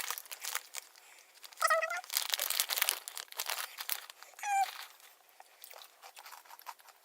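Plastic snack packet crinkling and crisp almond-and-rice squares being crunched, a rapid run of small sharp crackles. Two short high vocal sounds come about a second and a half and four and a half seconds in.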